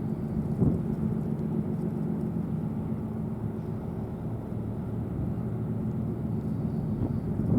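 Steady low engine rumble with a faint held hum, and a short knock just under a second in.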